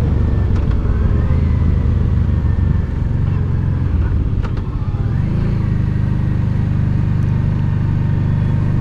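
Honda Deauville's 650 cc V-twin engine running steadily as it pulls the motorcycle up a mountain road. About halfway through, the engine note dips briefly, then settles at a higher, steady pitch.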